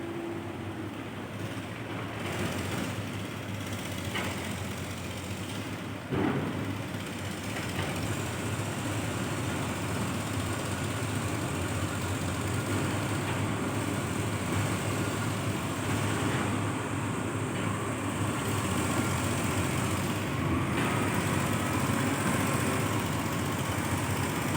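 Dump truck running while it tips out a load of raw nickel ore: a steady, noisy mechanical sound that slowly grows louder, with one sharp knock about six seconds in.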